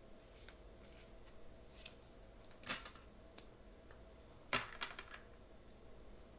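Tarot cards being handled and laid down on a table: a few sharp card snaps, one a little under three seconds in and another about two seconds later, with fainter ticks between.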